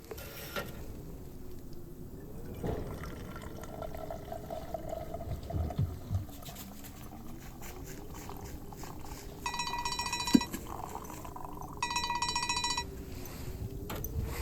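Water or coffee being poured and trickling into a pot or cup. Two short buzzing tones, each about a second long, come in the second half.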